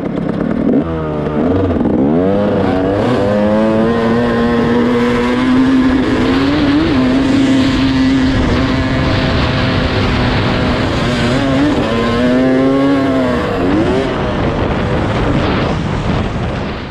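Dirt bike engine under riding throttle: it revs up in a few rising sweeps, holds a steady high pitch for several seconds, then drops and climbs again, with rushing wind noise. It cuts off suddenly at the end.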